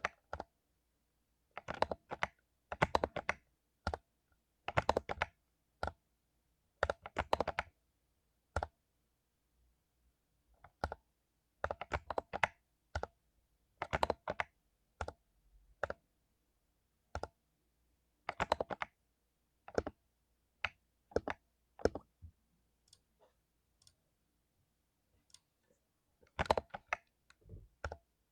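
Mechanical keyboard with lubed Cherry MX Silver linear switches being typed on in short bursts of quick keystrokes, with pauses of a second or two between bursts.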